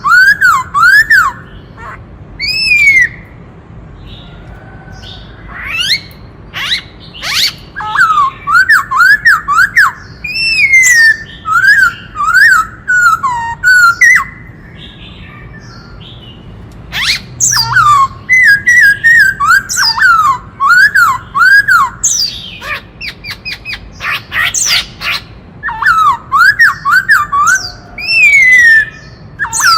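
Black-throated laughingthrush singing loud, varied phrases of quick up-and-down whistled notes mixed with sharp chips, with short pauses between phrases.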